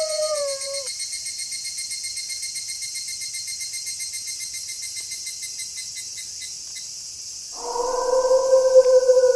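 Wolves howling: one long howl falls in pitch and ends about a second in, and another long, steady howl begins near the end. Between them a high, rhythmic chirring trill carries on alone.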